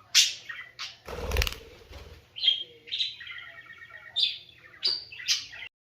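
Pet cockatiel and parakeet chirping in a string of short, high calls, some of them warbling, with a rustling thump about a second in. The sound cuts off suddenly near the end.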